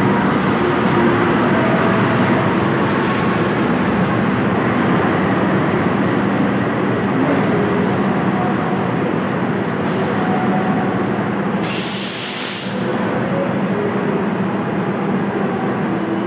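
Train running past on the rails, its diesel locomotive giving a steady low hum under a continuous rumble, with a brief hiss about twelve seconds in.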